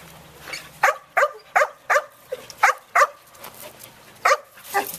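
Dog barking repeatedly at a fence, about seven sharp barks coming mostly in quick pairs.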